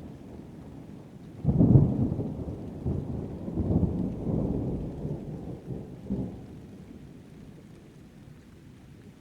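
Thunder rolling over steady rain: a sudden low rumble about a second and a half in, swelling several times over about five seconds before dying away, leaving the hiss of rain.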